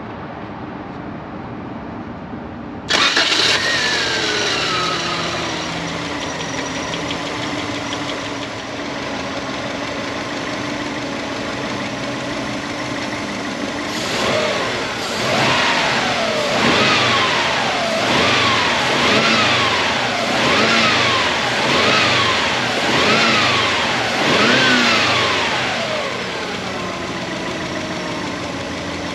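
1994 Subaru Legacy Turbo's EJ22T turbocharged flat-four starts about three seconds in, its pitch falling as it settles to a steady idle. About halfway through it is revved in about eight quick blips, each rising and falling, then drops back to idle.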